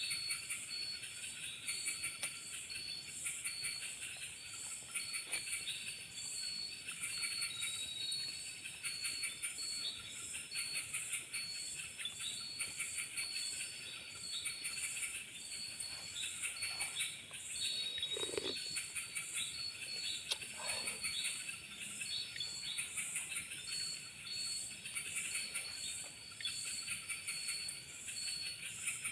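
Forest insect chorus: many insects calling in a steady high, pulsing rhythm, with a repeated shrill chirp and other insects or birds chirping over it. A brief lower call sounds once, a little past halfway.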